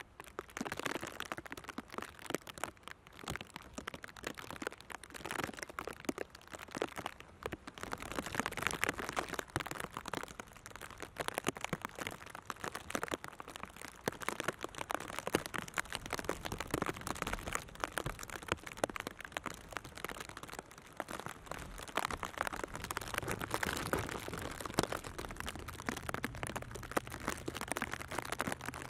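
Rain pattering close to the microphone: a dense, irregular crackle of drops that varies in strength throughout. A faint low hum joins near the end.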